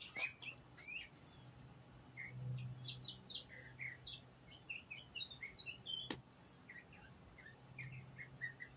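A songbird singing, a long string of short, quick chirps. There is a single sharp click about six seconds in, over a faint steady low hum.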